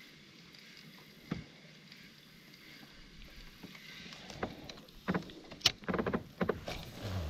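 Handling sounds on a fishing kayak: a single knock about a second in, then a busy run of knocks and clicks from about five seconds in.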